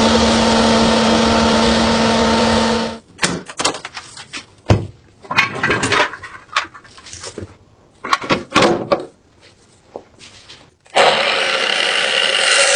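A power tool running steadily with a hum stops about three seconds in. A series of separate clicks, knocks and scrapes from metal parts being handled follows. The tool starts up again abruptly near the end.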